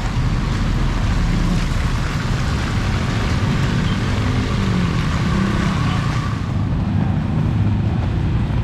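A motor vehicle's engine running close by under a steady hiss of heavy rain. The higher part of the hiss drops away about six and a half seconds in.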